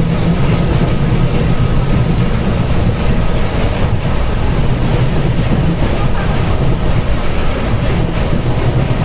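Train wheels running on the rails: a steady, low rumble with no distinct clacks standing out.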